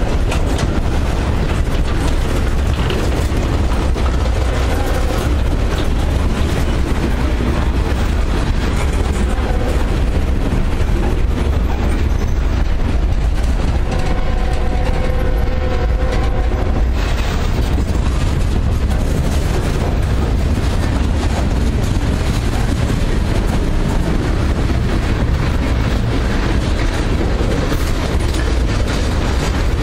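Freight train cars rolling past close by: a steady rumble and rattle of steel wheels on the rails. Around the middle a steady pitched tone sounds for about three seconds.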